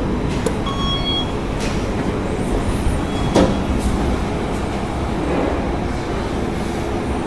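KONE MiniSpace traction elevator car travelling in its shaft, a steady rumble with a few sharp clicks. A short electronic beep sounds about a second in.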